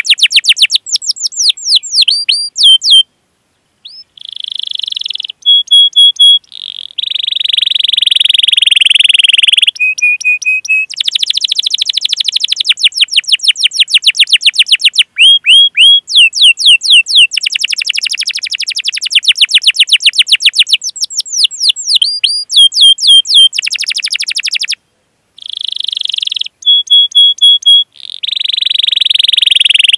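Domestic canary singing a long, loud song: very fast rattling trills of repeated sweeping notes, held whistled notes and buzzy rolls, broken by two short pauses, about three seconds in and near the end.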